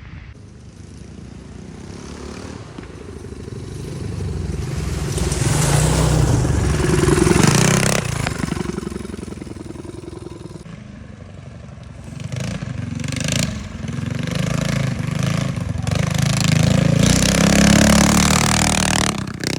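Minibike engines with loud aftermarket and straight-pipe exhausts, revving as the bikes ride past, echoing through the trees. The sound builds to one peak about a third of the way in and a second, longer one near the end.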